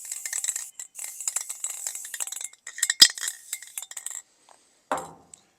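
Aerosol spray-paint can being shaken, the metal mixing ball clinking and rattling inside in quick strokes for about four seconds, with one sharp clack about three seconds in; the can is nearly empty.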